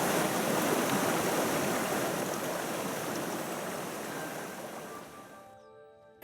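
Rushing mountain stream: a steady wash of flowing water that fades away near the end.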